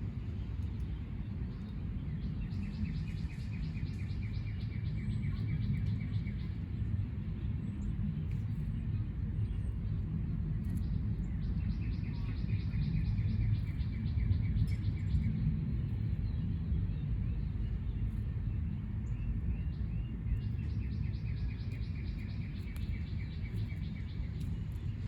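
A songbird singing a long, fast trill that slides slightly down in pitch, three times, over a steady low rumble.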